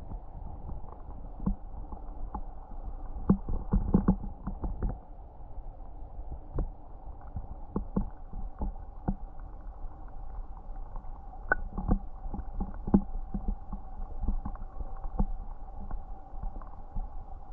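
Mountain stream burbling over rocks: a steady rush of water with frequent small plops and splashes, sounding dull and muffled.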